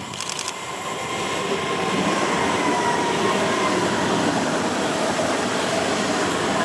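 A train approaching and passing on the track, growing louder over the first two seconds and then staying loud and steady as the wagons roll by. A faint whine rides on the rumble and slides slightly lower in pitch.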